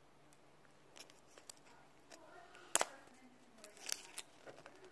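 Scissors and hands working at plastic toy packaging: scattered faint clicks and snips, with one sharper click nearly three seconds in and a short cluster of clicks near the end.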